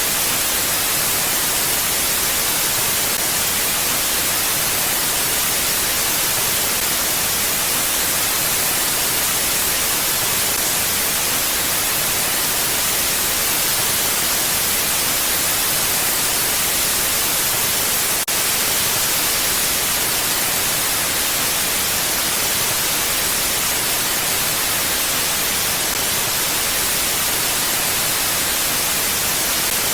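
Mountain wind as a steady, even hiss, with no gusts or swells. A brief click sounds about eighteen seconds in.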